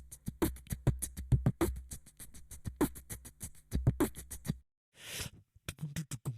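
Beatboxing: quick, rhythmic mouth-made drum hits over a low bass tone. The beat breaks off about four and a half seconds in, followed by a short hiss and a few more fast hits.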